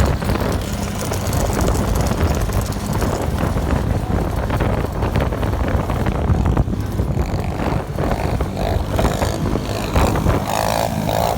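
Pit bike engine running as the bike is ridden, a steady low rumble with a higher tone coming in near the end.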